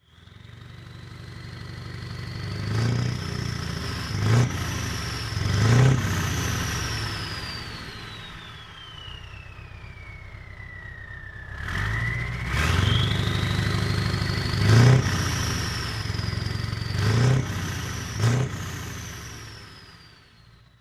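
Heavy truck diesel engines pulling away and accelerating, with short loud surges as they go through the gears and a high turbo whistle that rises, falls slowly, then rises again. The engine sound builds twice, fading briefly about halfway through.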